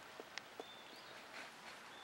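Faint outdoor background with a few short, high bird chirps and a couple of small clicks.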